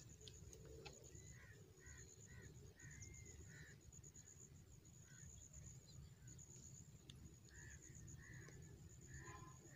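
Faint outdoor ambience: a bird's short calls, repeated in two runs of quick notes, over a steady high pulsing buzz and a low rumble.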